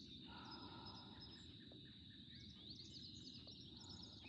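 Faint birdsong: quick high chirps and short trills, over a steady thin high insect drone and a low outdoor background hum.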